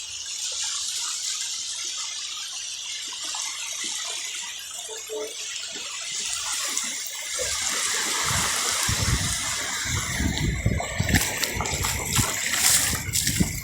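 Sea surf washing on a beach: a steady hiss that grows, about halfway through, into louder low rough rumbling, with crackling near the end.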